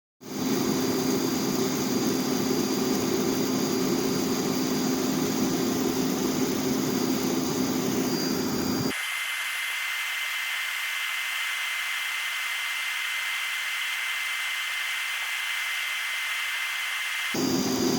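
Heat Star forced-air propane heater running: a steady rush of fan and burner with a low hum. About halfway through the sound changes abruptly to a thinner hiss with a high whine, then switches back near the end.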